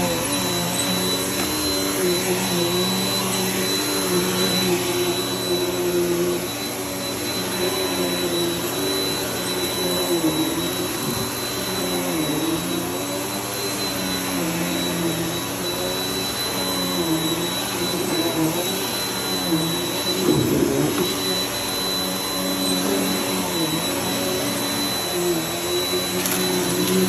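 Vacuum cleaner running continuously, with a steady high whine over a lower motor hum whose pitch wavers and dips every few seconds.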